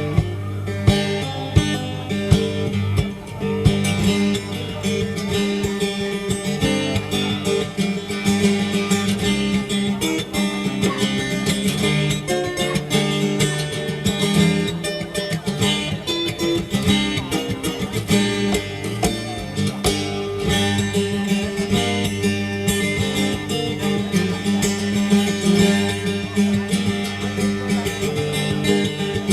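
Solo acoustic steel-string guitar played in percussive fingerstyle: fast plucked melody and bass notes mixed with sharp percussive slaps, which come about once a second in the first few seconds.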